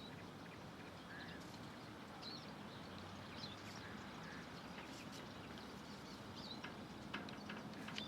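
Small birds chirping now and then, short high chirps scattered through, over a steady low hum of background noise with a few faint clicks.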